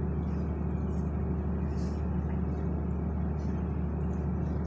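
A steady low mechanical hum, like a motor or engine running at an even speed, with faint scattered ticks above it.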